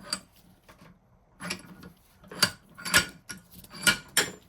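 Antique Reed vise being worked open and closed, its metal parts giving half a dozen sharp, separate clicks and knocks. The vise has a tight spot where a part interferes as it moves.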